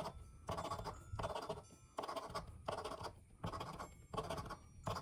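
Scratch-off lottery ticket being scratched in a run of short scraping strokes, about one every half second to second, with brief pauses between.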